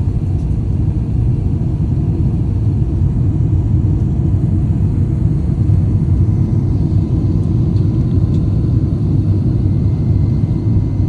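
Steady low rumble of an airliner, with a faint steady high tone above it.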